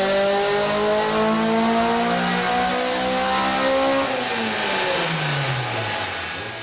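Honda Civic hatchback's four-cylinder VTEC engine revving at full throttle on a chassis dyno. Its pitch climbs steadily for about four seconds, then the throttle closes and the revs fall away.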